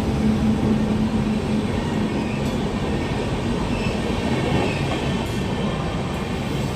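A train running along the track, a steady rumbling rush of noise with faint high squeals in the middle.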